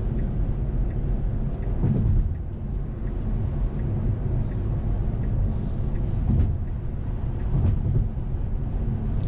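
Road and tyre noise inside a Tesla Model 3 at highway speed: a steady low rumble with no engine note.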